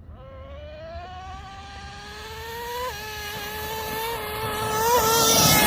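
Traxxas Revo 3.3 RC monster truck's small two-stroke nitro engine revving high as the truck accelerates. Its whining pitch climbs, drops sharply about three seconds in, and dips again near the end. The engine grows much louder as the truck comes close, with a rush of noise at the loudest point.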